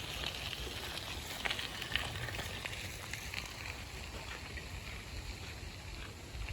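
Outdoor ambience: a steady low rumble under a light crackling rustle, with a couple of faint clicks a second or two in.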